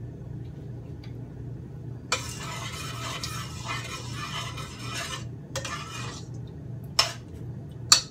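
Sliced garlic dropped into hot oil in a frying pan, sizzling loudly for about three seconds from about two seconds in, then a shorter sizzle. A metal spoon clinks against the pan a couple of times near the end, over a steady low hum.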